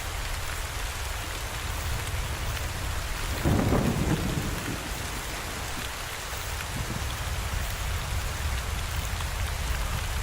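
Steady rain falling, with a short low rumble about three and a half seconds in.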